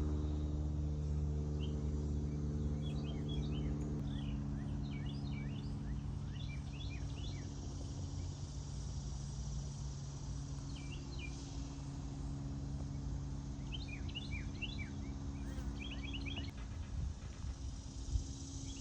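Small birds chirping in short, quick clusters every second or two, over a steady low machine hum.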